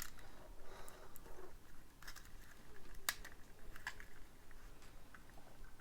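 LEGO plastic pieces being handled and pulled apart, with scattered small clicks and one sharper click about three seconds in.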